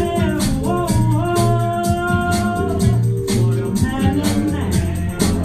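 Live band music with a Latin-jazz feel: a steady bass line, evenly spaced percussion hits and a shaker, and long held melody notes over them.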